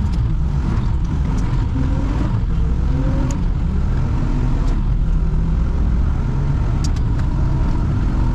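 Truck driving along at a steady speed: a continuous low rumble of engine and road noise, with a few faint clicks.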